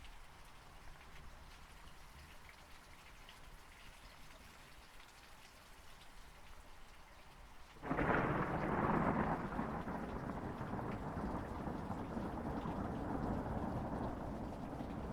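Steady rain falling, then about halfway through a sudden loud clap of thunder that rolls on as a long rumble over the rain.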